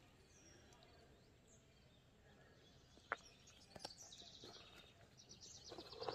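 Near silence outdoors, with small birds faintly chirping in a rapid high trill in the second half. A single faint click sounds about three seconds in.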